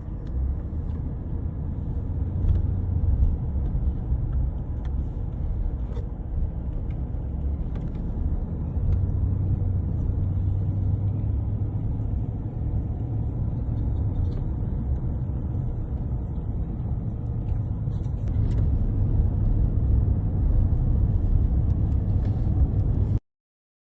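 Steady low rumble of a car in motion, heard from inside, with a few small knocks. It cuts off abruptly near the end.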